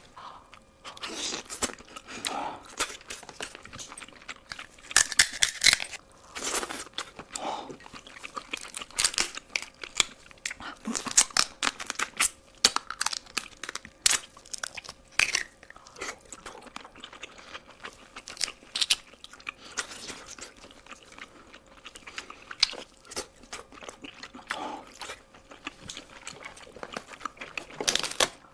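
A person eating close to the microphone: crunching bites and chewing, with irregular sharp crackles.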